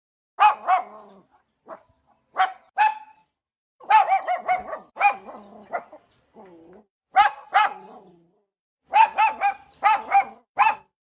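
Big dogs barking loudly in short bursts, often two or more barks in quick succession, with brief silent gaps between the bursts and a low growl about six seconds in.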